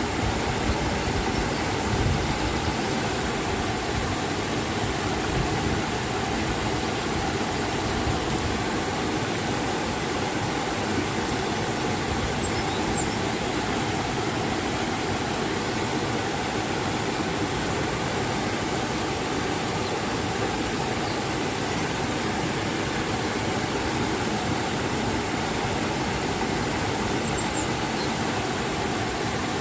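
River water and a waterfall rushing steadily.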